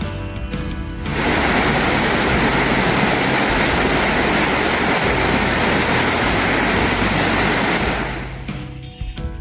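Background guitar music with a loud, steady rush of water laid over it, swelling in about a second in and fading out near the end.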